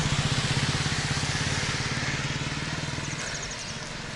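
A motorcycle engine running as the bike passes close and fades steadily as it moves away.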